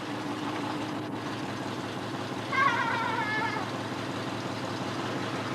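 Truck engine running steadily, with a short high wavering squeal lasting about a second, midway through.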